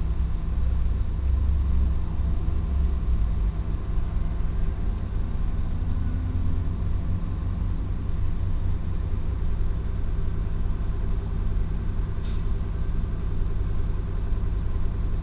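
A 1996 Mazda MPV's 3.0-litre V6 idling steadily, heard from inside the cabin.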